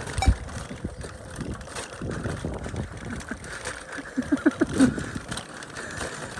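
Riding a bicycle along a path: steady tyre and rattle noise with wind on the microphone, scattered clicks, and a quick run of short pitched notes about four seconds in.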